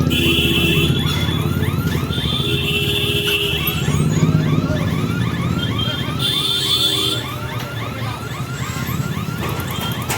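Electric local train (EMU) pulling out of the station: a steady low rumble of the running train with a rapid run of short rising squeaks, about three to four a second, and three brief high tones.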